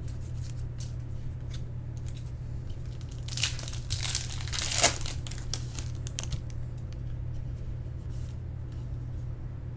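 Foil wrapper of a trading-card pack being torn open and crinkled, a dense rustling burst between about three and five seconds in, with small clicks of cards being handled around it.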